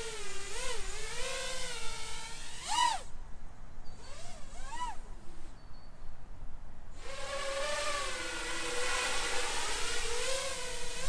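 FPV quadcopter's Thrust 2305 2350 kV brushless motors and propellers whining in a hover, the pitch wavering as the throttle is worked. There are short sharp blips about 3 and 5 seconds in. Between them and until about 7 seconds the motors drop to a low throttle, then the steady hover whine comes back.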